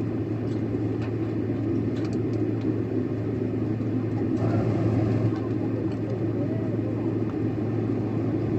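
Steady airliner cabin noise: the even drone of jet engines and rushing air with a low hum underneath, heard from a passenger seat inside a Korean Air jet.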